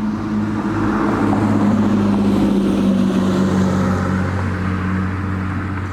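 Loud, steady drone of several car engines running, a deep continuous hum with a rushing haze above it.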